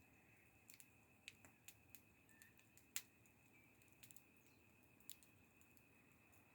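Wood fire crackling faintly: irregular sharp pops and ticks a few times a second, the loudest about three seconds in.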